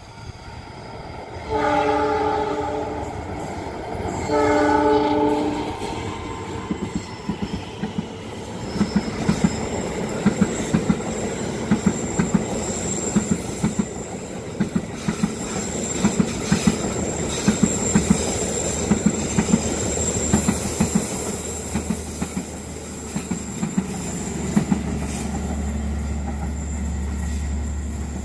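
Train horn sounding two blasts of a second and a half or so each, then a train passing close by: a long run of rhythmic clickety-clack from the wheels over the rail joints, with a steady high whine.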